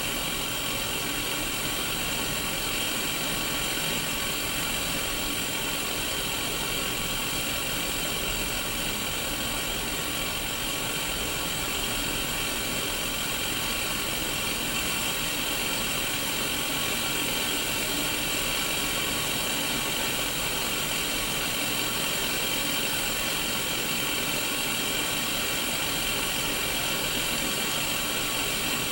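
Static hiss from a Sony Mega Watchman black-and-white pocket CRT television showing white noise, heard through its small speaker: a steady hiss, brightest in the upper middle.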